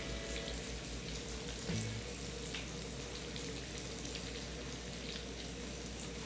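Hot oil sizzling steadily with small pops as breaded chicken pieces deep fry in a wok.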